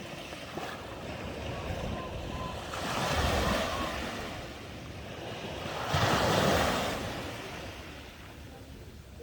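Sea waves breaking, the surf swelling twice, about three seconds in and again about six seconds in.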